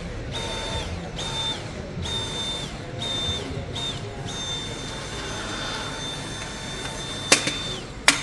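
A small electric motor whirring in short bursts, switched on and off about eight times, then running for about three seconds before two sharp clicks near the end.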